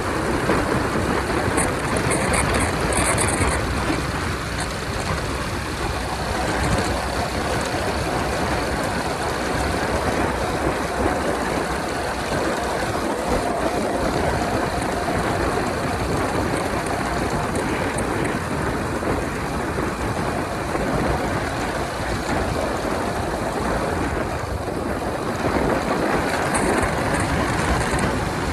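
Honda 125 motorcycle cruising at highway speed: the engine running steadily under heavy wind rush across the microphone.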